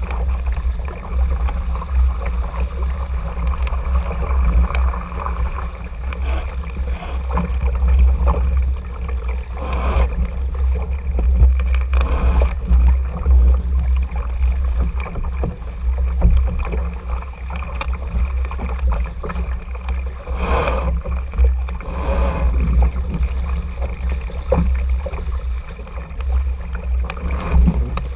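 Wind rumbling on the camera microphone and water rushing along the hull of an RS Tera sailing dinghy under way, with four brief, louder splashes of water.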